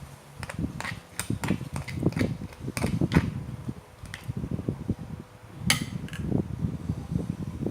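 Close eating sounds of someone eating seafood papaya salad with pickled crab: irregular chewing with sharp clicks and cracks. The sharpest crack comes a little before the six-second mark.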